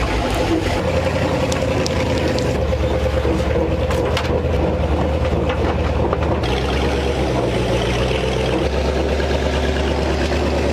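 1957 Chevrolet Viking truck's engine running steadily in gear as the truck drives under its own power.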